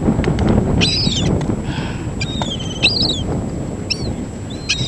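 Seagulls calling: several short, high, wavering squeals spread through a few seconds, over a steady low rush of background noise.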